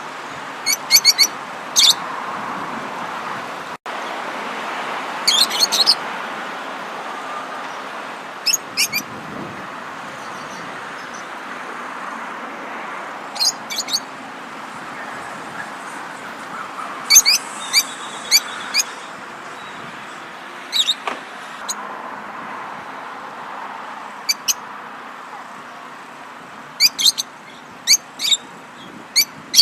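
Songbirds chirping in short runs of quick, repeated high notes, a cluster every few seconds, over a steady rushing background noise.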